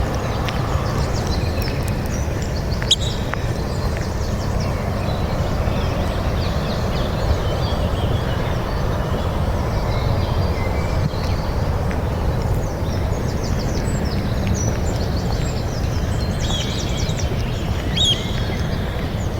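Small birds chirping in short scattered calls over a steady low rumble, with the calls busiest near the end.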